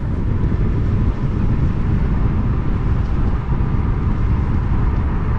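Wind buffeting the camera microphone with road rumble as a Kaabo Wolf King GT electric scooter is ridden at about 40 mph: a dense, steady low rumble.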